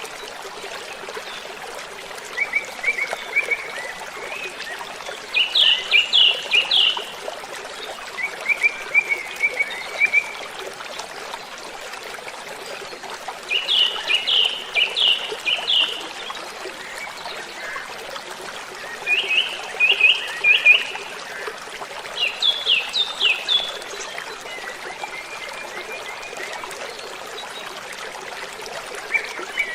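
Steady rushing of a waterfall, with a songbird repeating short phrases of quick, rapid notes every few seconds over the water.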